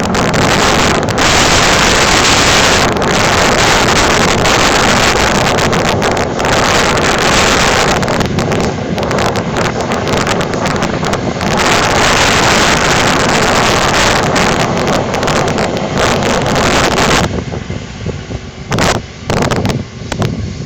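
Heavy wind buffeting the microphone, nearly drowning the steady engine drone of a John Deere 9530 tractor pulling a scraper. The buffeting eases about 17 seconds in.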